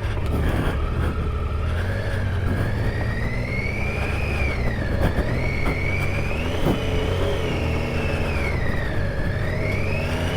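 Triumph Tiger 800 XCa's three-cylinder engine running under varying throttle, its pitch rising and falling slowly over the whole stretch, with a few sharp knocks about a second in, near the middle and around two-thirds of the way through.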